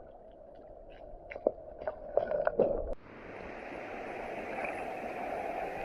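Scattered light taps and clicks, then, about three seconds in, a sudden change to the steady rush of flowing water.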